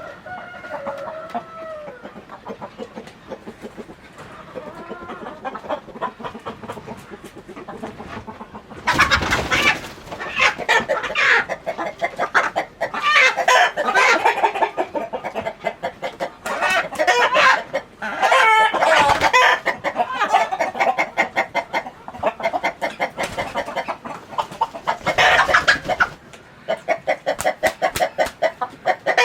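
Chickens clucking, faint at first, then a loud, dense chorus of rapid clucks from about nine seconds in.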